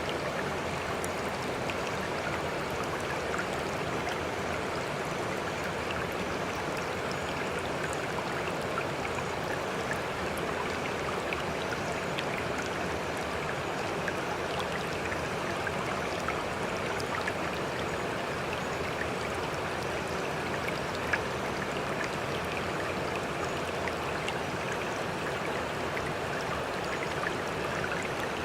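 Steady running water with a constant wash and faint small ticks scattered through it, one a little sharper about three-quarters of the way in.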